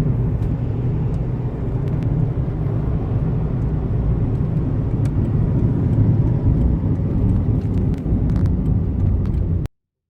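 Steady low rumble of a 2010 Toyota Yaris running, a car whose engine has a detected misfire. It cuts off suddenly near the end.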